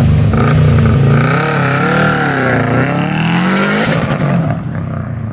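A vehicle engine revving hard and loud, its pitch swinging up and down several times, then dying away about four seconds in.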